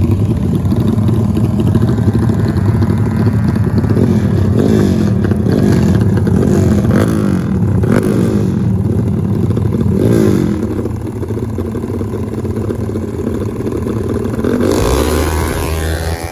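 Racing motorcycle engines running loud, revving up and down several times in the middle, then easing to a quieter, steadier run near the end.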